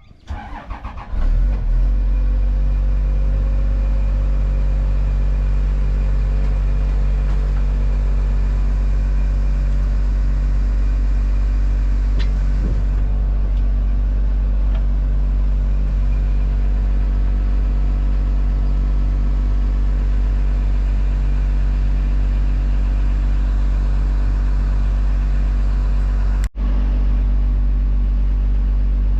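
Tractor engine starting about a second in, then running steadily at a constant speed, with a momentary break near the end.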